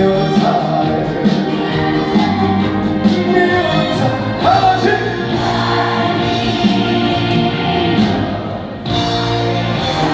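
Live trot song played through a concert PA: singing over a full backing band, with a brief drop in loudness just before the end.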